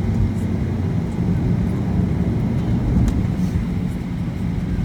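Steady low rumble inside a Boeing 737-800 cabin after landing, with a few faint clicks.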